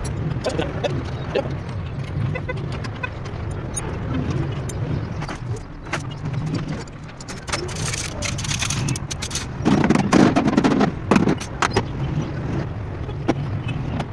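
Steady low rumble of a motor vehicle, with many scattered clicks and knocks and a louder, noisier stretch about ten seconds in.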